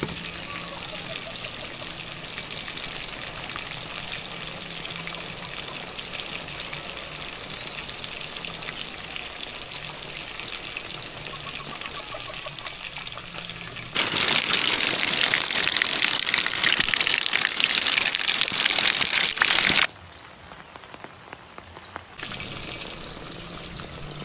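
Diced food sizzling in hot oil in an iron wok over a wood fire, a steady crackling hiss. About two thirds of the way in, a much louder rushing hiss starts abruptly and stops suddenly some six seconds later. After a short quiet spell the softer sizzle returns.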